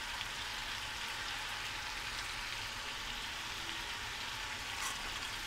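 Chicken pieces frying in hot oil in a karahi: a steady sizzle.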